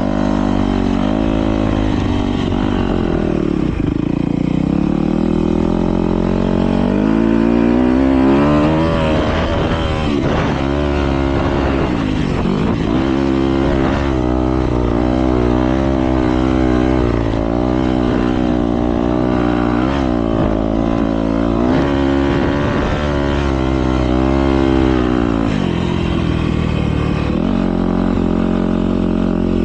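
Several motocross bikes racing, their engines revving up and falling off again and again, with the notes overlapping.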